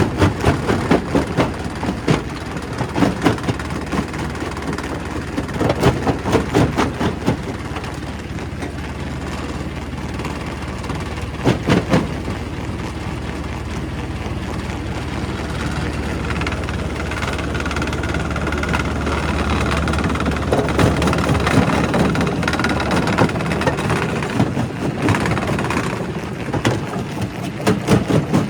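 Primary rock crusher working stone, an engine running steadily under it. Stretches of rapid knocking and banging of rock being broken come at the start, once in the middle and again near the end, with a steadier drone in between.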